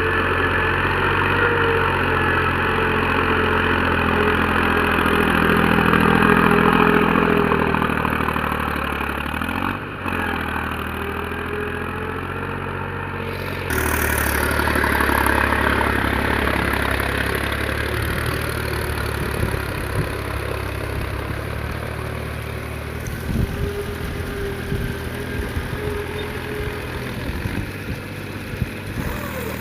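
Mahindra farm tractor's diesel engine running steadily, its note changing abruptly twice around the middle, with a few sharp knocks near the end.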